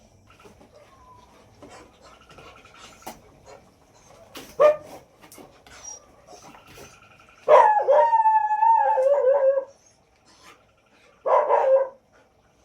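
A dog gives a short yelp, then a long wavering whine-howl about halfway through that falls in pitch, and a shorter whine near the end.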